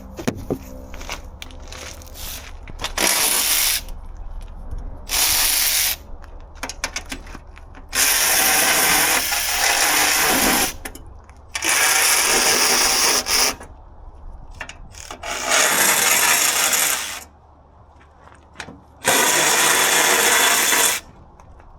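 A power tool run in six bursts of one to three seconds, with clicks and taps of hand tools in the gaps between them.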